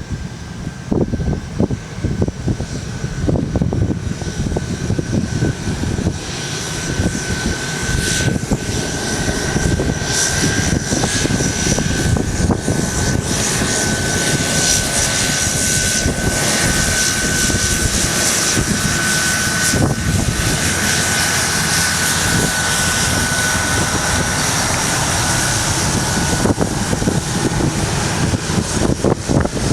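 Jet airliner engines whining with a steady high tone over a low rumble, growing louder over the first several seconds and then holding, with wind buffeting the microphone.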